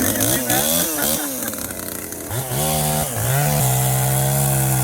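Gas chainsaw running, its engine pitch rising and falling as it is revved through cuts, then holding steady near the end.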